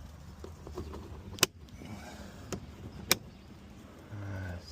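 Plastic retaining clips of a Ram truck door panel snapping into place: two sharp clicks about a second and a half apart, with lighter ticks and handling noise between them.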